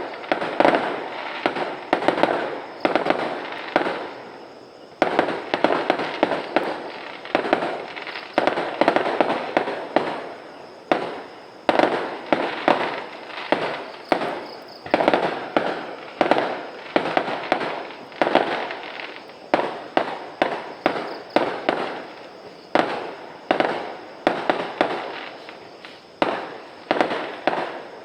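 Fireworks going off in quick succession, a dense run of sharp bangs and pops each with a short decaying tail, several a second, with brief lulls about four and ten seconds in.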